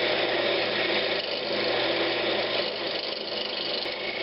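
Wood lathe running steadily, its motor humming as it spins a pine knob blank.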